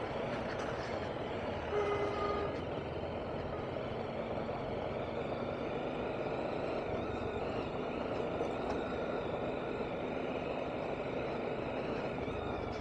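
BMW G310RR's single-cylinder engine running steadily under way, mixed with road and wind noise. About two seconds in, a horn sounds briefly.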